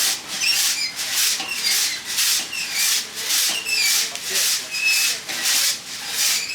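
Rhythmic hand scraping or rubbing strokes, about two a second, each a rough rasping sweep.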